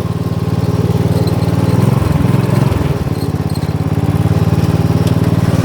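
Small engine of an off-road Murray running steadily while driving, its note wavering briefly about two seconds in before settling back.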